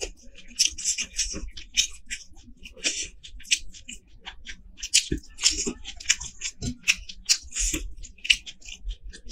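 Eating sounds: chewing with irregular crisp crackles and wet mouth smacks.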